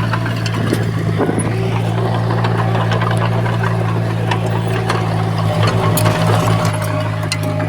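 Diesel engine of heavy earthmoving machinery running steadily, with scattered metallic clicks and clanks over it.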